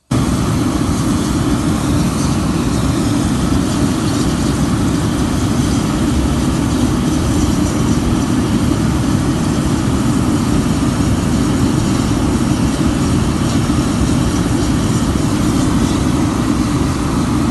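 Burners of a refinery fired heater firing hydrogen-rich fuel gas and fuel oil: a loud, deep, steady rushing combustion noise that cuts in abruptly at full strength.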